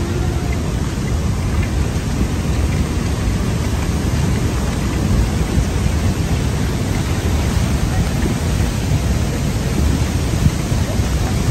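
Loud, steady rushing of floodwater, a continuous rumbling roar heaviest in the low range with no break.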